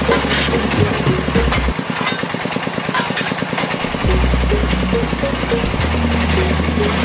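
Drilling rig machinery and engine running with a dense mechanical clatter. A low hum drops out about two seconds in, returns, and drops out again near the end.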